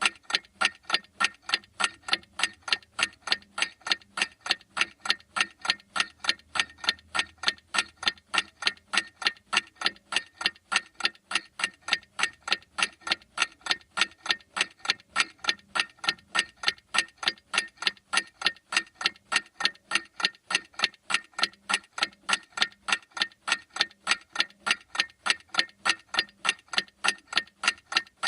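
Clock ticking steadily, sharp even ticks at a few per second with no change in pace.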